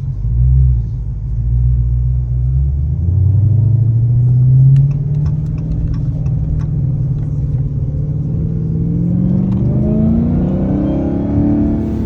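Supercharged 6.2-litre V8 of a Dodge Hellcat pulling away under throttle. There is a short loud swell about half a second in, then the engine pitch climbs and drops at a gear change about five seconds in, and climbs again over the last few seconds.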